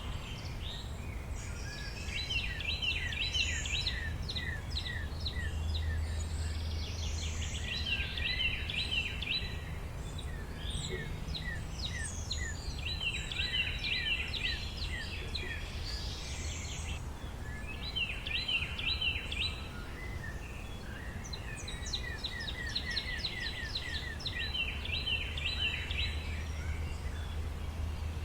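Songbirds singing in a forest: phrases of fast repeated trilled notes come back every few seconds, with other birds calling in between. A low steady rumble runs underneath.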